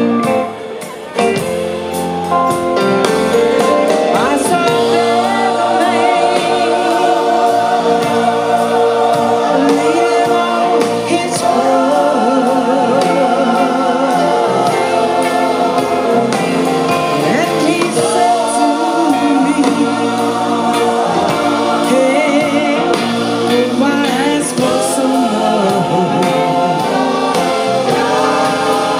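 Live band music with a gospel-style group of backing singers, holding long wavering notes over the band.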